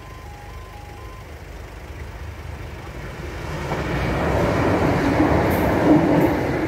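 Level crossing's two-tone warning alarm alternating for about a second and then stopping. A passenger train then approaches and runs over the crossing, its wheel and running noise building to a loud peak about four to six seconds in before easing.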